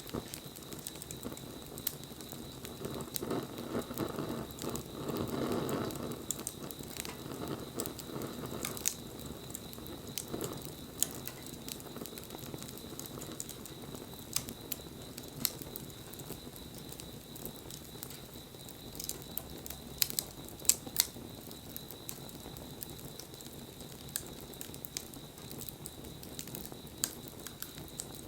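Wood bonfire crackling, with scattered sharp pops throughout and a few louder ones about twenty seconds in; a rushing swell of the flames rises and fades a few seconds in.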